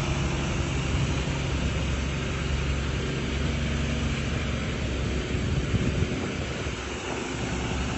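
A truck engine running steadily under load as it hauls a boat trailer up a slippery ramp, with a steady low hum throughout.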